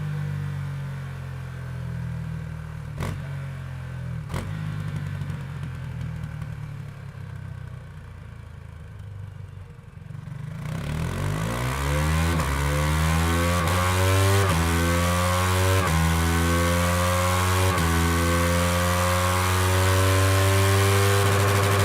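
KTM 390 single-cylinder motorcycle engine running at low revs, with two sharp clicks a few seconds in. About ten seconds in it revs up and accelerates, the pitch climbing and dropping back several times as it shifts up, then holds steady and loud at speed.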